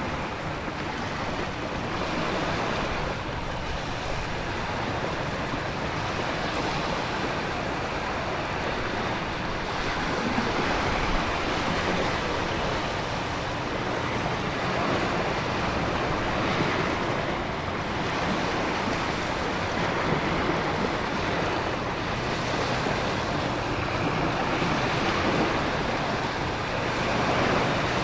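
Storm ambience: a dense, steady rush of ocean waves, wind and heavy rain, swelling and easing every few seconds without any sharp cracks of thunder.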